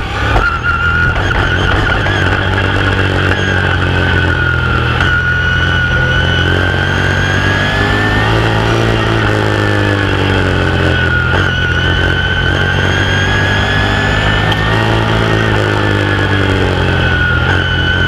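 Open-wheel modified race car's V8 engine heard from inside the car at racing speed, its pitch rising and easing off in a repeating swell about every six or seven seconds as it drives the straights and turns.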